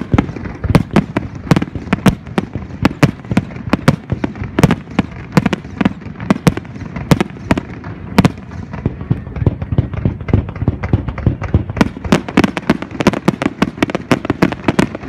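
Starmine fireworks display: aerial shells bursting in quick succession, several sharp bangs a second with no break, crowding together most densely near the end.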